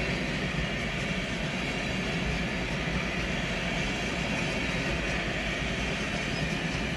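HŽ passenger coaches rolling past: steady noise of steel wheels running on the rails, with a low rumble and a hiss.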